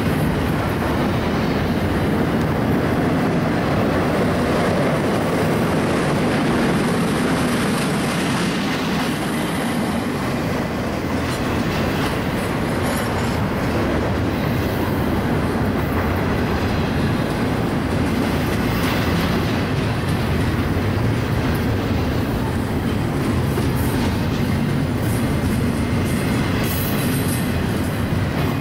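Empty double-stack intermodal well cars of a BNSF freight train rolling past close by: the steady sound of steel wheels running on the rails.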